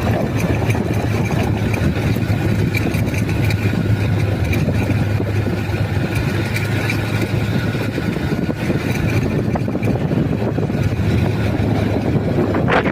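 A motor vehicle's engine running steadily while on the move, a constant low hum under broad road noise.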